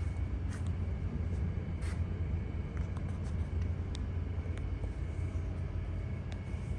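Steady low rumble of background noise, with a few faint scattered clicks.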